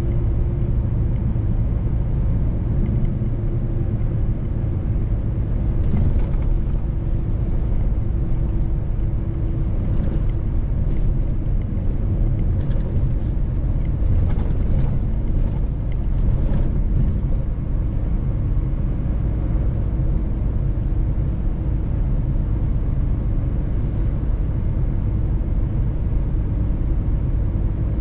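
Mercedes-Benz truck driving, its engine and road noise making a steady low rumble, with a few faint ticks in the middle.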